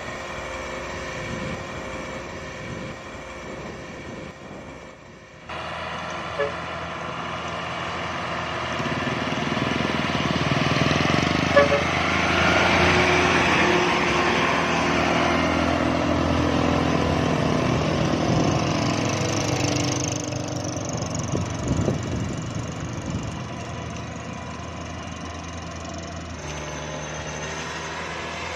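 Diesel engine of a small truck laden with sand and gravel, running steadily. It grows louder from about a third of the way in and eases back after about two thirds.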